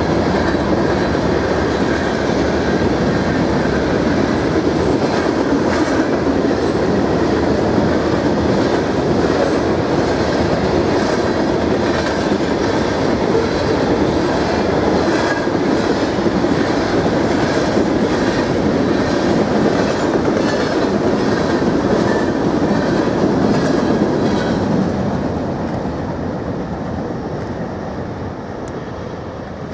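Norfolk Southern freight train's cars rolling past: a steady rumble of steel wheels on rail with faint clicks over the rail joints, fading over the last few seconds.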